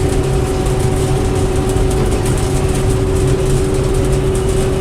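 Combine harvester running steadily while harvesting soybeans: a constant engine rumble with a steady hum from the machinery over it.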